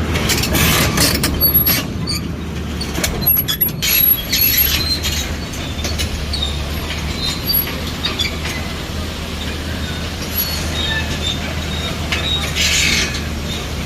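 Heavy earth-moving machine running steadily, its low engine drone overlaid with scattered metallic squeals and clanks, loudest in the first few seconds and again near the end.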